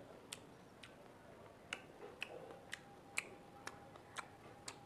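Faint, sharp mouth clicks about twice a second from a person chewing raw amla (Indian gooseberry).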